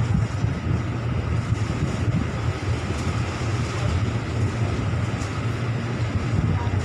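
Steady low rumble of a vehicle running along railway track.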